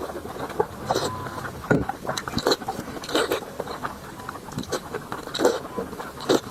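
Close-up eating sounds of a person chewing braised meat: irregular wet smacks and clicks of the mouth, a few each second.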